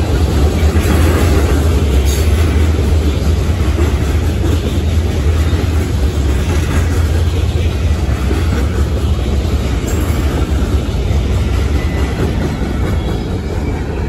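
Freight train's covered hopper cars rolling past close by: a steady, loud rumble of steel wheels on the rails.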